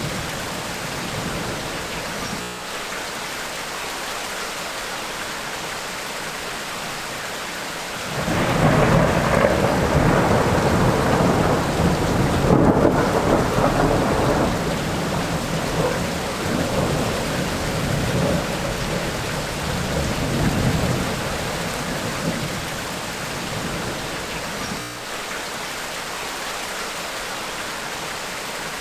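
Steady rain falling in a tropical rainstorm, with a long roll of thunder that breaks in suddenly about eight seconds in, rumbles loudly for several seconds and slowly fades away.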